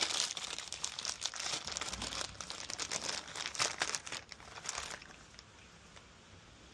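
Crinkling and rustling of plastic being handled, thick with small clicks, as the suction pool cleaner's flaps are being replaced; it stops about five seconds in and goes quiet.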